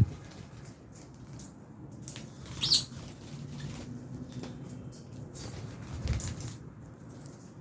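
Lovebirds moving about in an aviary, with wing flaps and scuffling and one short high chirp near the middle.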